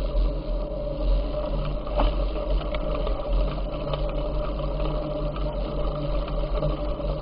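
Riding noise from a bicycle ride: steady wind rumble on the microphone with tyre and road noise and a faint steady hum.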